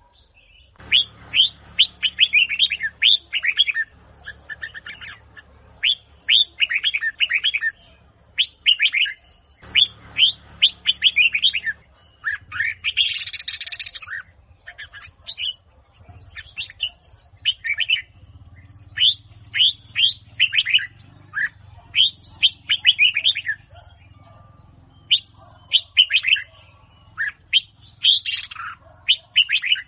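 Red-whiskered bulbul singing: repeated phrases of quick, bright chirping notes with short pauses between them, and one denser, buzzier phrase about halfway through.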